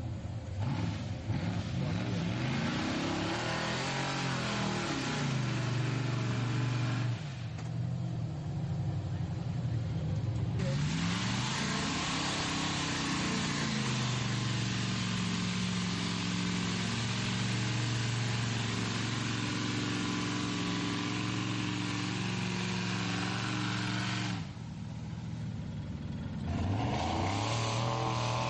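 Chevy pickup's V8 engine revving hard and easing off again and again as the truck churns through a mud hole, with a steady hiss from spinning tyres and spray over it. It backs off twice, about seven seconds in and again near the end, before revving back up.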